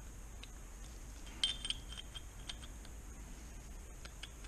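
Light metallic clicks and clinks of small steel gearbox parts being handled and worked by hand, with a cluster of clinks and a brief ring about a second and a half in.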